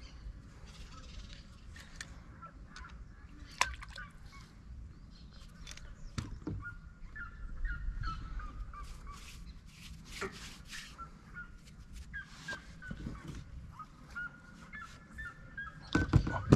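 Birds calling in runs of short, quickly repeated notes that step downward, with a few sharp clicks and knocks, the loudest near the end, over a low rumble.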